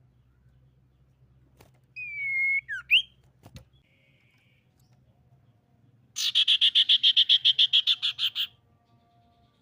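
Common iora calling. About two seconds in comes a drawn-out whistled note with quick up-and-down glides. From about six seconds a loud, rapid rattling trill of about seven notes a second runs for just over two seconds.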